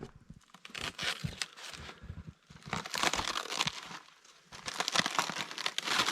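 Papery birch bark being torn and peeled by hand from a dead birch trunk, crackling and ripping in three spells of about a second each.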